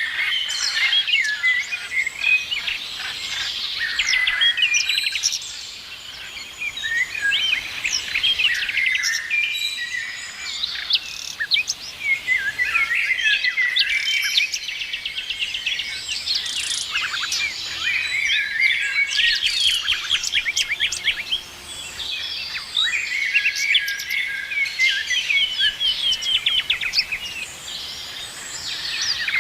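A chorus of many songbirds chirping and singing at once, overlapping calls and quick trills.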